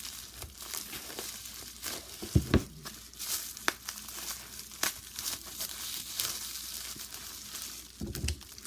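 Packing tape and wrapping crinkling and tearing as a taped package is worked open, with scattered sharp clicks and a low thump a little over two seconds in.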